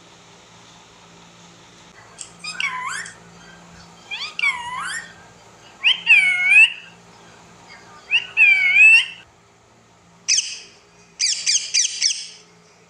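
Pet parrot calling: four drawn-out calls about two seconds apart, each about a second long and bending in pitch, then a short call and a quick run of four clipped calls near the end.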